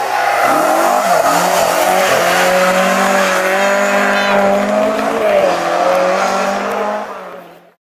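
Rally car engine running hard at high revs, its note held high with short dips and rises in pitch as it changes gear and load; the sound fades out about seven seconds in.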